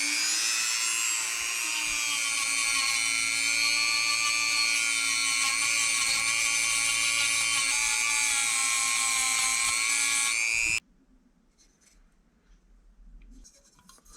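Rotary engraver motor running at high speed with a steady high whine, winding up to speed at the start and cutting off suddenly about eleven seconds in.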